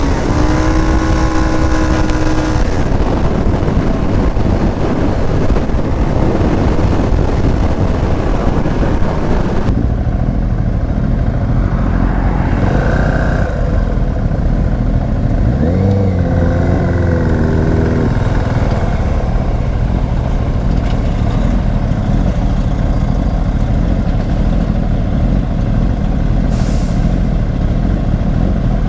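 Small Herald motorcycle's engine pulling away, its pitch rising over the first couple of seconds. It then runs on steadily under a loud, constant rushing noise.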